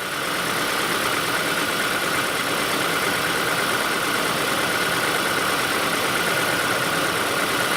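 Steady running noise from the 2008 Ford Escape Hybrid at idle under the hood: an even whir with a faint constant tone that does not change.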